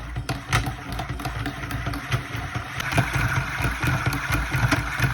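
Homemade three-solenoid star engine driving a table fan, its solenoids clacking irregularly over a low hum as it runs. A higher whir comes in about three seconds in.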